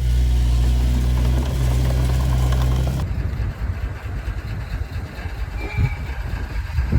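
Heavy earthmoving machine's diesel engine running with a steady low note. About three seconds in, the sound changes abruptly to a rougher, uneven engine rumble that rises and falls in level.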